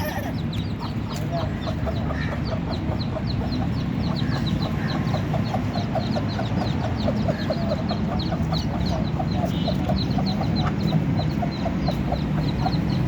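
Chicks peeping and a mother hen clucking, a dense run of short, quickly repeated calls without a pause.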